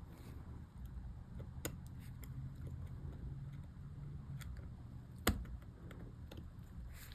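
Small plastic clicks and taps from handling MacBook keycap and scissor-clip parts, with one sharper click about five seconds in, over a steady low hum.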